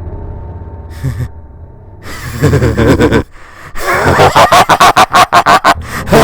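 A man's voice breaking down in distress: a strained cry about two seconds in, then rapid ragged gasping breaths, several a second, over a low steady hum.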